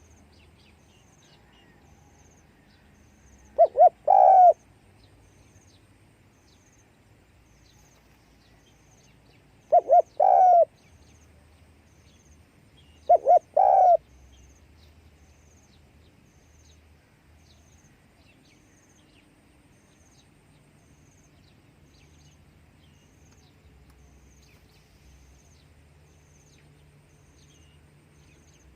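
Spotted dove cooing three times, each phrase two short notes followed by a longer coo, with a faint high ticking of insects behind it.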